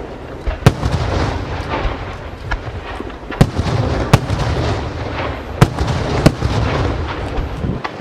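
Aerial fireworks going off: a steady crackle and rumble of bursting shells, with about five sharp, loud bangs spread through it.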